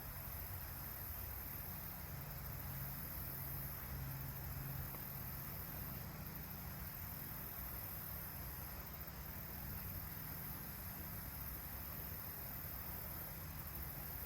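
Steady outdoor background noise: an even high-pitched hiss over a low rumble, with no distinct events.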